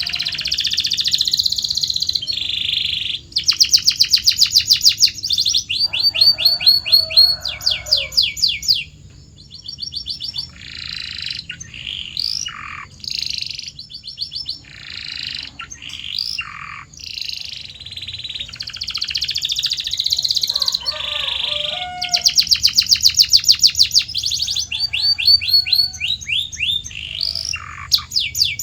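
Domestic canary singing a long rolling song: fast trills of very rapidly repeated notes, a middle stretch of separate downward-sweeping notes, then fast trills again.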